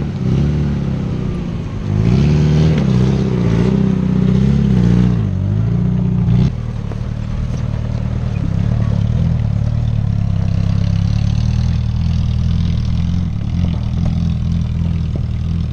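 Suzuki Samurai's 1.6-litre four-cylinder engine revving under load as it crawls up over rocks, its pitch rising and wavering. About six and a half seconds in it drops back to a steady lower run as the vehicle drives off.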